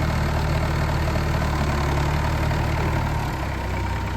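Tractor diesel engine running steadily at low speed, its note easing slightly about three seconds in.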